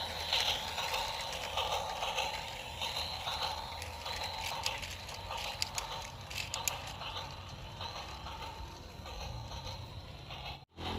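Small mechanism running with a steady whirr and scattered clicks, cutting off suddenly near the end.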